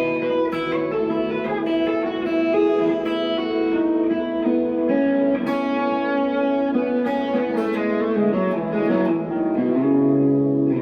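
1963 Fender Telecaster electric guitar played through an amp with delay and reverb: a slow melodic line of picked notes and chords that ring on and overlap, with a few sharper picked attacks.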